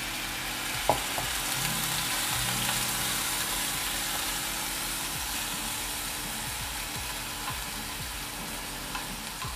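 Canned corned beef sizzling steadily in a nonstick frying pan with soy sauces and a splash of water, while a metal spoon stirs and breaks it up. There is a single light tap about a second in.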